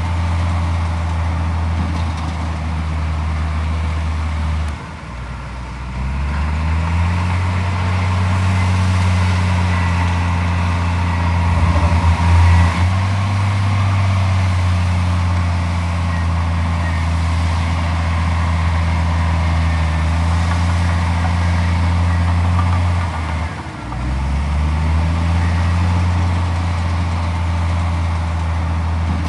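Heavy diesel engine of earthmoving machinery running steadily. Its speed drops briefly about five seconds in and again about three-quarters of the way through, then climbs back up each time.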